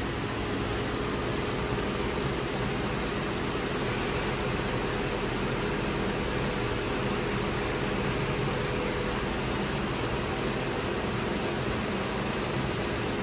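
2012 Lincoln MKZ's 3.5-litre V6 engine idling steadily, with no change in speed.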